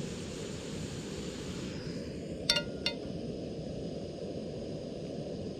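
Two sharp metallic clinks about a third of a second apart, ringing briefly, as metal cookware is knocked against the camping gas stove, over a steady low background noise.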